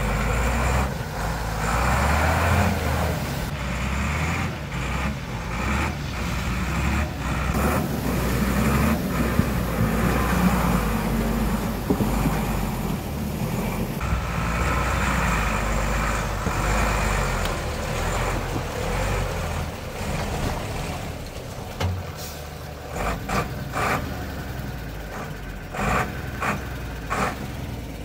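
Vehicle engine running as it drives over rough ground, with a string of sharp clunks and knocks in the last third.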